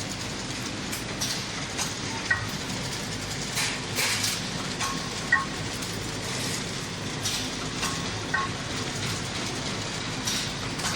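Paper straw counting and bagging machine running: a steady mechanical clatter with irregular sharp clicks, and a short high chirp about every three seconds.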